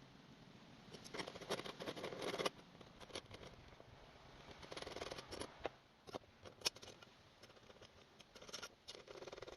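Handling noises from small engine-kit parts: bursts of rustling and sharp little clicks, loudest about a second and a half in and again around five seconds, with single clicks later on.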